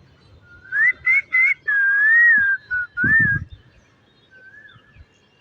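Pet green parrot whistling a short tune: three quick rising notes, then a longer wavering note and a couple of shorter ones, ending about three and a half seconds in.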